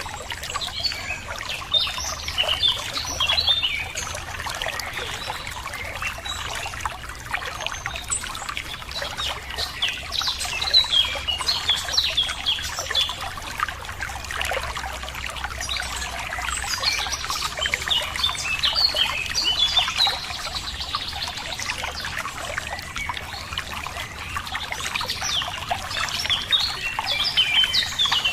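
A small stream of water trickling and running steadily, with songbirds chirping and singing over it in several bouts.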